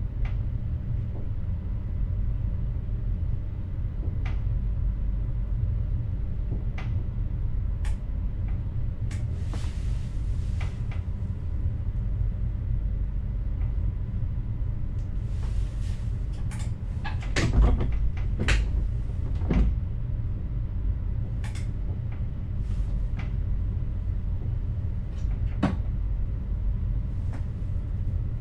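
Inside an electric train's driver's cab: a steady low rumble with scattered clicks and knocks, a run of heavier clunks about two-thirds of the way in, and a few short hisses.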